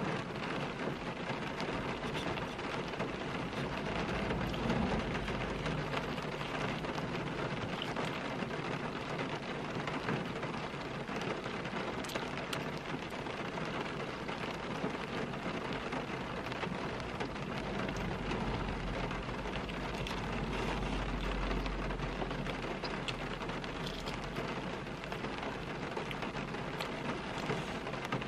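Steady rain on a car's roof and windows, heard from inside the cabin, with a low rumble that swells and fades about two-thirds of the way through.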